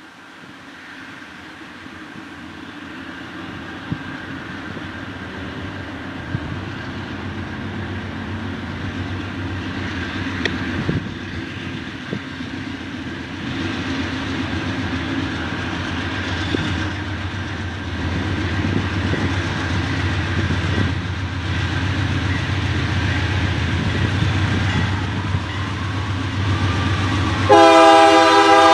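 Freight train's diesel locomotives approaching, the engine rumble and rail noise growing steadily louder with a few sharp clanks. Near the end the locomotive horn starts, loud and chorded.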